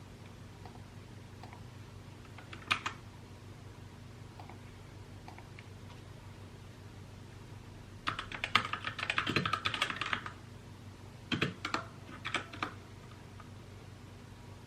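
Mechanical keyboard typing: a single keystroke, then a short burst of rapid keystrokes about eight seconds in, followed by a few more scattered clacks, over a low steady hum.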